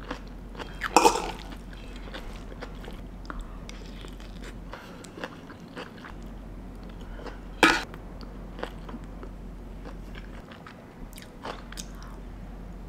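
Close-up eating sounds: chewing a mouthful of bibimbap, with scattered soft clicks and two louder sharp clicks, about a second in and near eight seconds.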